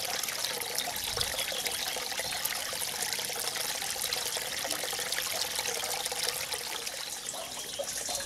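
Spring water trickling steadily from a small roadside spout and splashing below.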